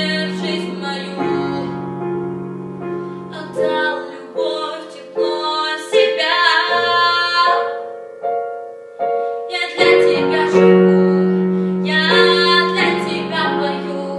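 Piano music: a melody of struck notes that ring and fade, over held low bass notes.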